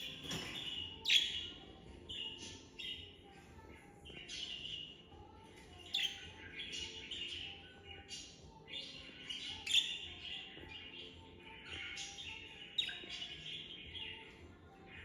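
Budgerigars chattering and warbling continuously, with a few sharper, louder chirps standing out every few seconds.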